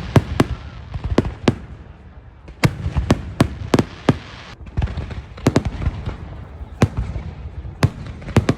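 Aerial fireworks bursting: an irregular series of sharp bangs, at times several in a second, over a continuous wash of rumble and crackle.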